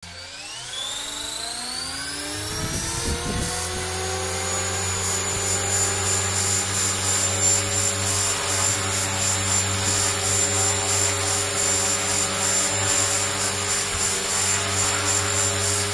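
Electric 450-size RC helicopter (HK-450GT) spooling up: the motor and gear whine rises in pitch over the first few seconds, then holds steady with an even rotor-blade beat as it hovers.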